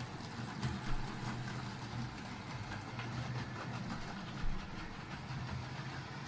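Model train running on a layout's track: a steady electric motor hum with light irregular clicking of wheels over the rail joints and a couple of small knocks.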